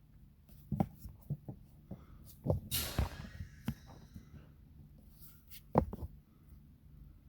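Handling noises: a series of irregular clicks and knocks with a short scraping rustle about three seconds in, like parts or tools being picked up and set down.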